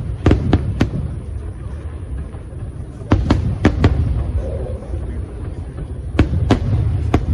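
Fireworks bursting overhead in quick clusters of sharp bangs, over a steady low rumble. There are three bangs within the first second, a run of about five around three to four seconds in, and three more near the end. Recorded on an old phone's microphone.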